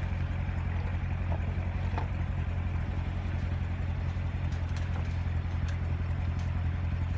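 A vehicle engine idling steadily, a low even hum that holds its pitch, with a few faint clicks.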